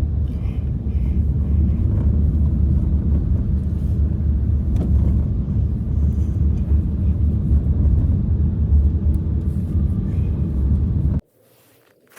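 Strong blizzard wind buffeting the microphone as a heavy, uneven low rumble, which cuts off suddenly about a second before the end.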